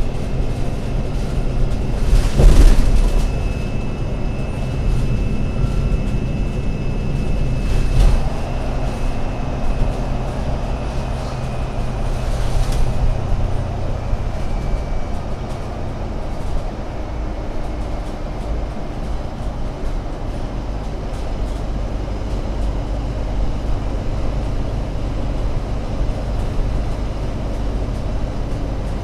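Alexander Dennis Enviro500 MMC Euro 6 double-decker bus running, a steady low engine drone. There is a loud knock about two and a half seconds in and another at about eight seconds. A faint high whine in the first half fades out around the middle.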